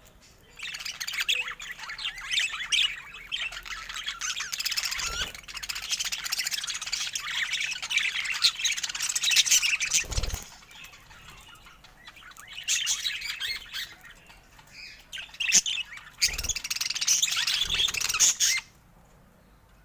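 Budgerigars chattering in fast, high-pitched runs of chirps and squawks, with a lull around the middle and a sudden stop near the end; a few dull thumps among them.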